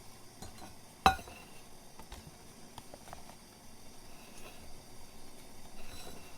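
A small metal item set down with one sharp clink that rings briefly about a second in, followed by faint scattered taps and clicks of the gear being handled.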